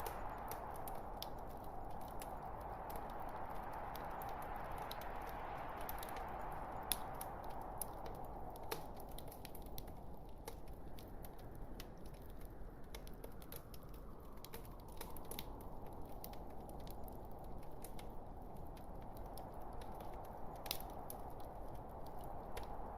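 Wood fire in a fireplace crackling: irregular sharp pops and snaps from the burning logs over a steady soft rushing hiss that slowly swells and fades.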